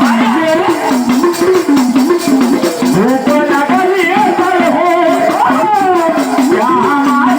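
Devotional song to Mahadev: a voice singing a continuous, ornamented melody, with steady rhythmic jingling percussion behind it.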